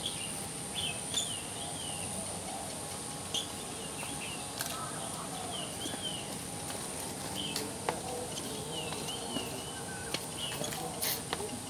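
Birds calling: short, wavering chirps repeated every second or so, over a steady high-pitched hum and a few sharp clicks.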